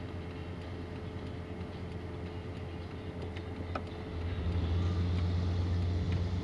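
Car engine and road noise heard from inside the cabin while driving: a steady low hum that grows louder about four seconds in.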